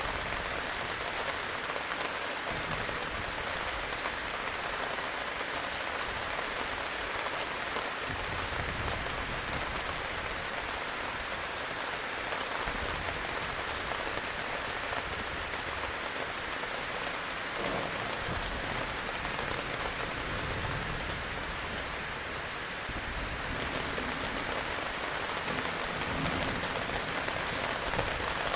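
Steady heavy rain, a dense even patter of drops, with a low rumble coming and going underneath.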